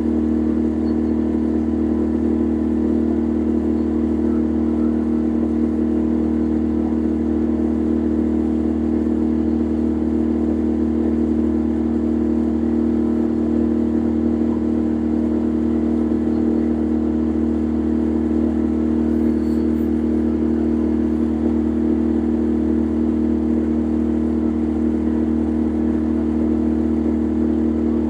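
Boat engine running at a steady speed, an even drone with a strong hum that does not change, heard on board.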